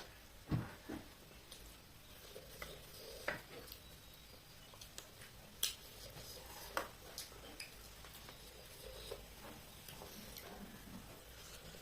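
Faint eating sounds from a meal of chicken and rice: scattered small clicks and soft squishy noises, with a few louder knocks spaced a second or more apart.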